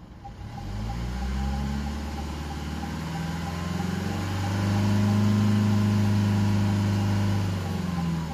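2.0-litre Ingenium four-cylinder diesel of a Range Rover Evoque, heard from inside the cabin, revved from idle to build exhaust flow through the diesel particulate filter. The revs climb from about half a second in, step up again a few seconds later, hold, then start to drop near the end.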